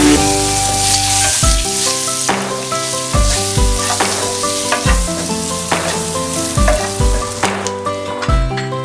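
Boiled quail eggs sizzling in hot oil and spice paste as they are stir-fried with a wooden spatula; the hiss is strongest in the first couple of seconds. Background music with a steady beat plays over it.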